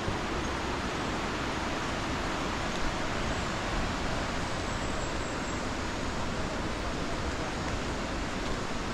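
Steady rush of water pouring over a small waterfall into its pool.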